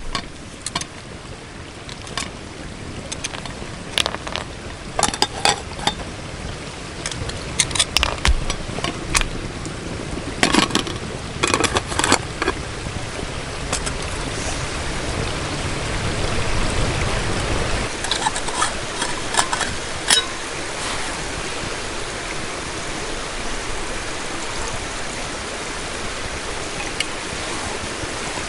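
Scattered sharp clicks and knocks, thickest in the first half, then a steady hiss.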